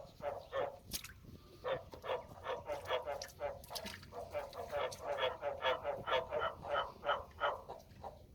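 Male frog giving its mating call: a long run of short, evenly repeated croaks, about three a second.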